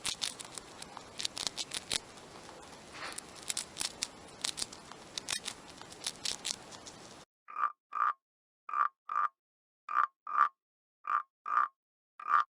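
Sharp clicking and rustling over a steady hiss, then, from about seven seconds in, a frog croaking: short, clear calls in pairs, a pair a little over every second, four pairs and the start of a fifth.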